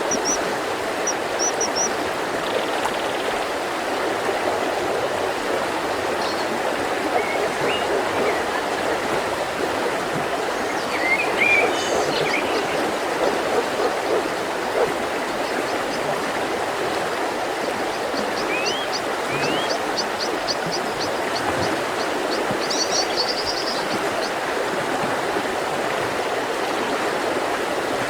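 Mountain river flowing with a steady rush of water. Small birds call over it now and then: brief high chirps, a fast run of ticks followed by a short trill about two-thirds of the way through, and a few short rising whistles.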